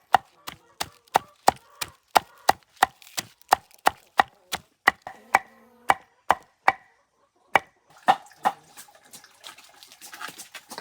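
Knife chopping on a wooden cutting board in steady strokes, about three a second, with a short pause about seven seconds in before a few more strokes. The man is mincing vegetable peels into chicken feed.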